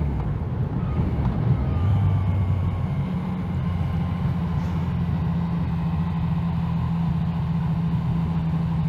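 Yamaha MT-09 three-cylinder motorcycle engine running under way, mixed with heavy wind rumble. The engine note steps up about three seconds in, then holds steady as the bike cruises.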